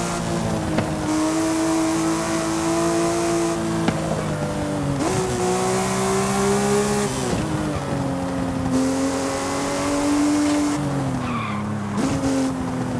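Porsche Speedster flat-six engine running under way. Its note holds steady, then steps up in pitch about five seconds in, drops sharply about seven seconds in, and steps up again near the end, the way an engine goes through gear changes. A steady rush of wind and road noise sits under it.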